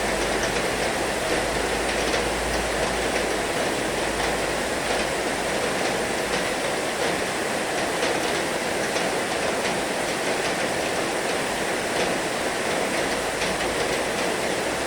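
Heavy rain falling in a steady hiss, with faint scattered drop ticks and a low rumble underneath that fades away about six seconds in.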